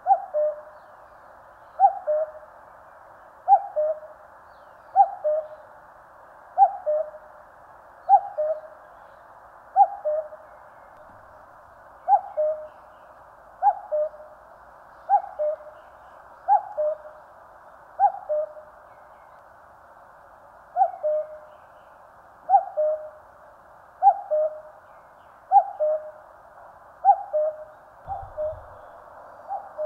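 Common cuckoo calling its two-note "cuck-oo", the second note lower, repeated steadily about every second and a half. The last few calls are fainter.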